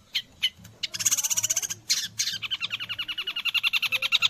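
Long-tailed shrike (cendet) singing, a bird tutored on white-rumped shama song: a few spaced sharp chips, then about a second in a loud, fast trill of rapidly repeated notes, about a dozen a second, that runs on for several seconds.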